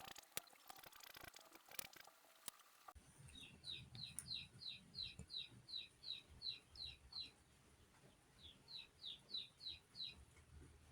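Faint scratchy clicking for the first few seconds, then a bird calling a quick run of short, downward-sliding chirps about three a second, pausing, and repeating a shorter run.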